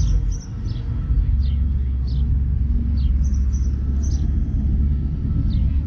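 A steady low rumble that grows heavier about a second in, with small birds chirping over it in short, high, falling notes, a couple a second.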